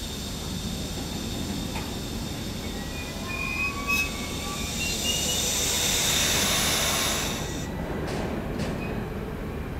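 CargoBeamer intermodal freight wagons rolling slowly past on an arriving train, their wheels rumbling steadily. Short high brake or wheel squeals come around the middle, followed by a louder hissing swell and a couple of clicks near the end.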